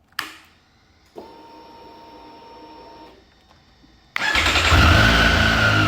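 Motorcycle switched on and started: a steady whine for about two seconds, typical of the fuel pump priming, then the Triumph Street Triple 765's inline-three engine fires about four seconds in and runs loudly, with a whine easing slightly downward.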